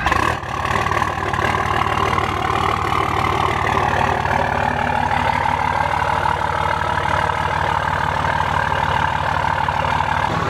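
Straight-piped 5.9 Cummins turbo-diesel catching as it starts, then settling into a steady idle.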